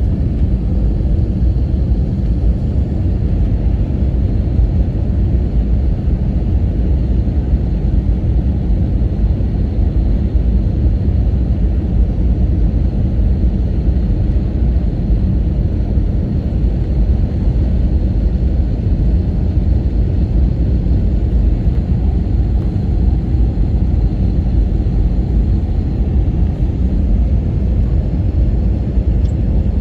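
Airliner cabin noise inside an Airbus A321 descending: a steady low rumble of engines and airflow, with a faint steady high whine above it.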